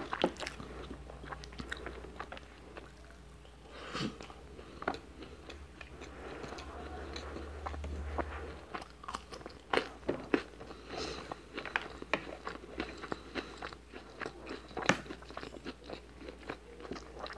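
Close-miked eating of rice and a cheddar-topped burger: chewing and crunching with many sharp mouth clicks, and a wooden spoon scooping across a plate, over a steady low hum.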